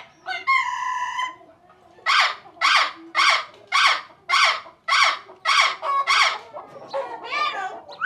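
A bird calling: one drawn-out call, then a run of about nine short, loud calls at about two a second, with a few shorter, uneven calls near the end.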